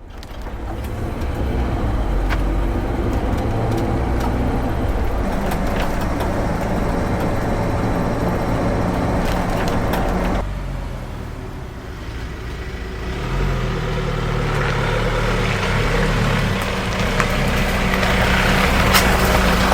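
A vehicle driving: engine running with road and tyre noise. The sound drops suddenly about halfway through, then builds back up.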